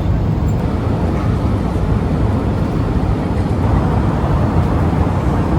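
Steady cabin noise of a Boeing 787-8 Dreamliner in flight, heard from a passenger seat: an even, mostly deep rush of airflow and engine noise with no change.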